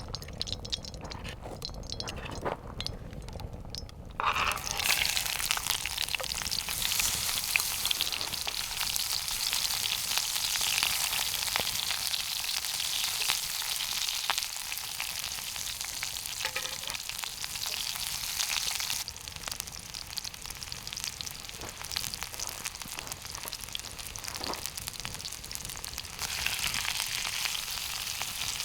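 Food sizzling in a hot pan, starting suddenly about four seconds in and going on steadily, easing slightly past the middle and picking up again near the end.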